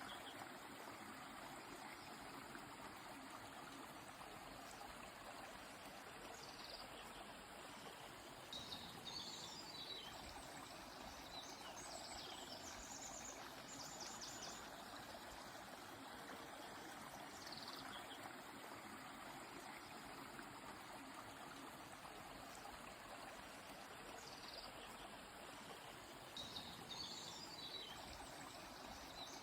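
Steady rush of a flowing stream, with small birds calling and chirping in short high phrases every few seconds over it.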